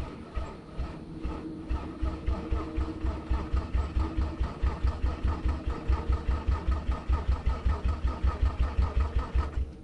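Starter motor cranking an engine on jump-start power, with an even pulsing at about five or six beats a second that stops abruptly near the end; the engine does not catch, a sign that the jump still gives too little power.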